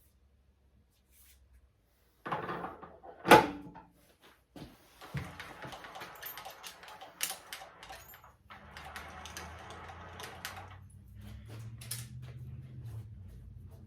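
Metal lathe tooling being handled and fitted: clattering and knocking, with one sharp clank about three seconds in and busy rattling after it. A low steady hum comes in during the second half.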